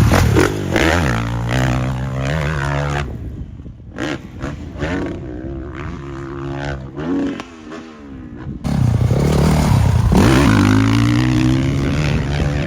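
Dirt bike engines revving up and down through the gears. They are loud for the first three seconds, fainter in the middle, then loud again from about nine seconds in.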